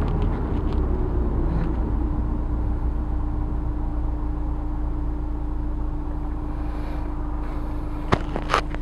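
Honda S2000's inline-four with a Milltek dual exhaust, heard from inside the cabin with the top up: a steady exhaust hum and road rumble at cruise. There are a couple of sharp clicks near the end.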